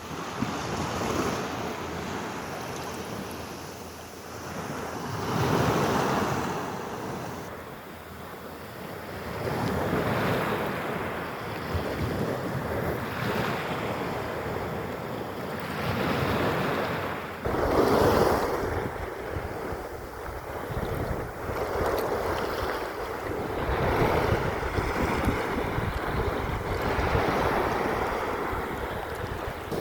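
Sea waves washing onto a beach, the surf swelling and fading every few seconds. From a little past halfway, wind buffets the microphone with a low rumble.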